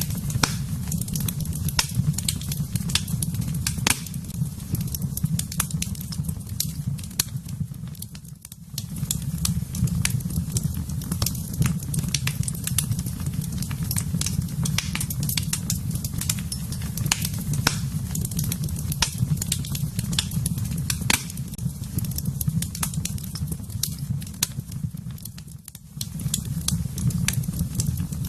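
Fire burning in a fireplace: a steady low rumble of flames with frequent sharp crackles and pops. The rumble drops away briefly twice, about a third of the way in and again near the end.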